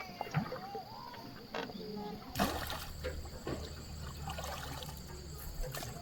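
Water splashing and trickling, with a few short chirps in the first couple of seconds and scattered sharp knocks.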